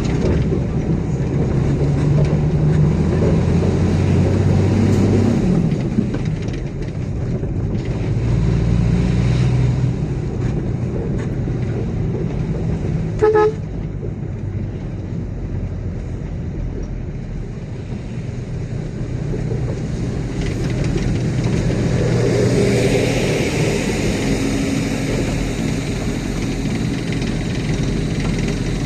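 Heavy diesel engines of construction vehicles running, their pitch shifting now and then, with one short horn toot about 13 seconds in.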